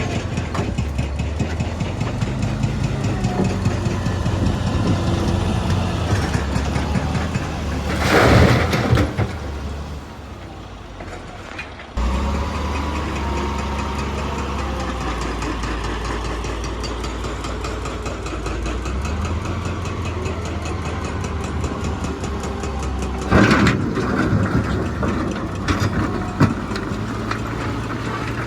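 Heavy diesel machinery engine running, its pitch stepping up and down with load. Two short, loud, noisy crashes or bursts break in, one about a third of the way through and one near the end, and the engine sound drops away briefly then comes back abruptly near the middle.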